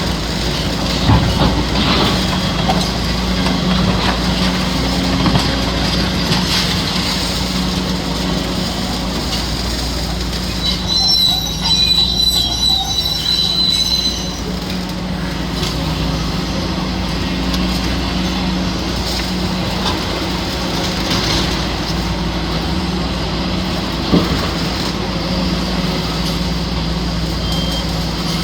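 Kobelco SK850 demolition excavator working: its diesel engine runs steadily under a clatter of scraping and knocking. A high metallic squeal comes in about eleven seconds in and lasts about three seconds.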